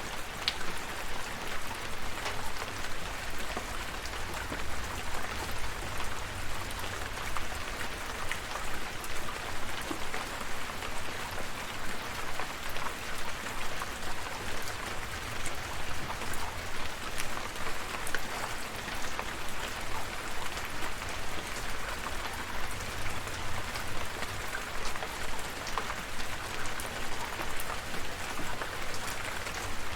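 Steady rain falling, with many individual drops pattering on a surface over a low rumble.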